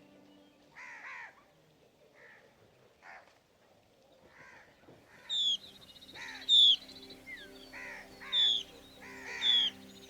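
Bird calls over soft background music: a few scattered harsh calls in the first seconds, then from about five seconds in, loud, sharp, high-pitched descending notes repeating about once a second.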